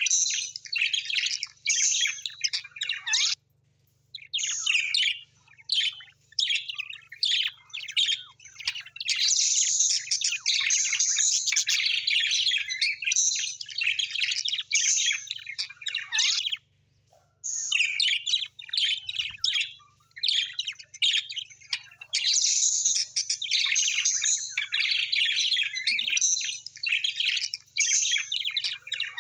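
A flock of small birds chirping and chattering in quick, dense bursts, with two short pauses about four seconds in and again past the middle.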